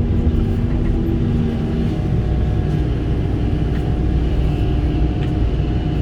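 Kobelco SK85 excavator running under load, its diesel engine humming steadily with a hydraulic whine; about two seconds in, the whine changes pitch as the machine moves.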